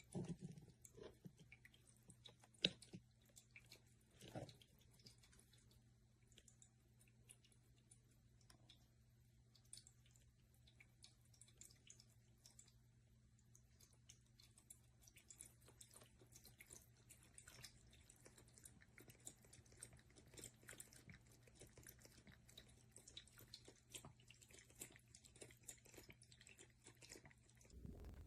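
Faint, quick, irregular wet clicks of a cat lapping and mouthing at a water fountain, over a steady low hum.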